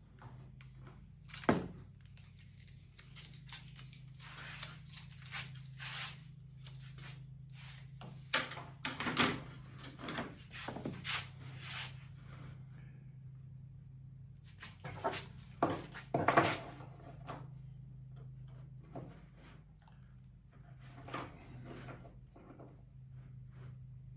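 Scattered knocks, taps and short scraping rustles of hand work with small wooden parts and tools on a workbench, over a steady low hum.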